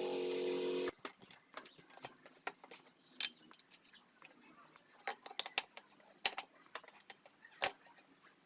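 A brief steady hum for about the first second, then scattered small clicks and clinks of metal parts and tools being handled on the workbench.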